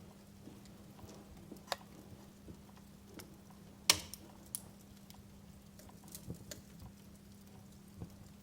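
Wood fire crackling in a fireplace: sparse, irregular small cracks and pops, with one sharp loud pop about four seconds in, over a faint steady low hum.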